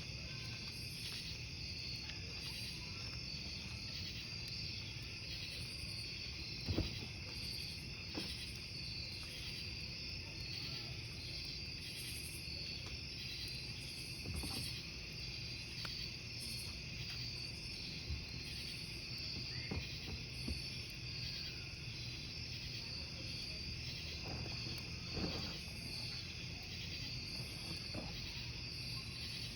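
Crickets chirping steadily over a crackling wood campfire, with a low rush from the fire and scattered sharper pops, the loudest about seven seconds in.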